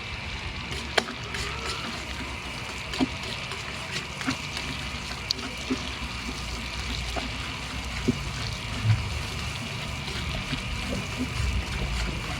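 Liquid sauce cooking in a pan: a steady hiss with scattered pops and clicks.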